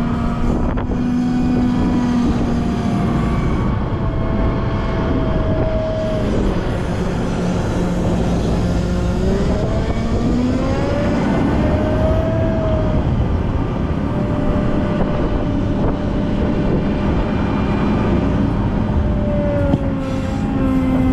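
Volvo L90F wheel loader's diesel engine working under load, its pitch rising and falling several times as it revs up and settles back, with a higher whine that follows the engine speed.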